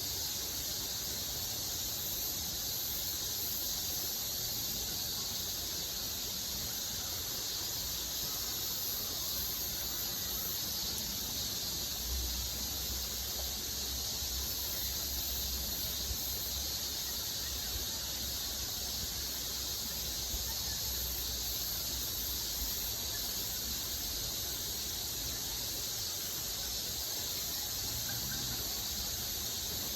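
Steady high-pitched insect chorus over an even rushing hiss, with a low rumble that grows louder about twelve seconds in.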